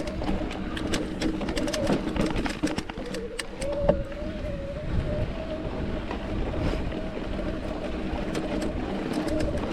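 Mountain bike rolling over a rocky trail, with frequent sharp clicks and rattles from the bike and a wavering hum beneath the rolling noise.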